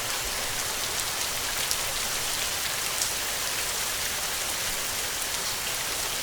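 Heavy rain falling steadily: a dense, even hiss with scattered sharp ticks of single drops.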